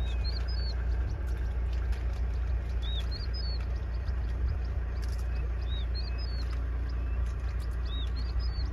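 A bird singing a short phrase of high, arched whistled notes, repeated about every three seconds, over a steady low rumble.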